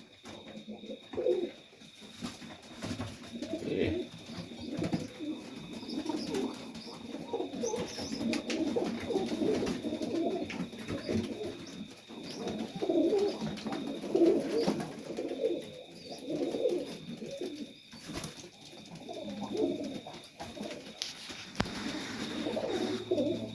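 Several Serbian highflyer pigeons cooing, their calls overlapping one another, with a few faint clicks from the birds moving about.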